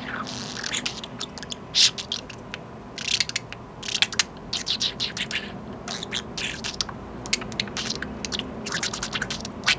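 Budgerigar making a rapid, irregular run of sharp clicks and ticks mixed with brief raspy, scratchy chatter.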